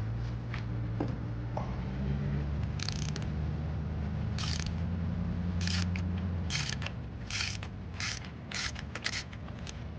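Ratchet wrench clicking in short bursts, turning a spark plug socket on extensions to loosen a spark plug from a BMW N52 straight-six cylinder head; the strokes come quicker toward the end. A steady low hum runs underneath and stops about two-thirds of the way through.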